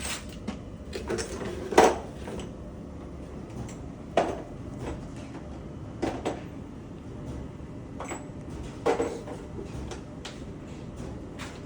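Hard objects being handled: a series of sharp knocks and clatters a couple of seconds apart, the loudest about two seconds in, over a low steady background hum.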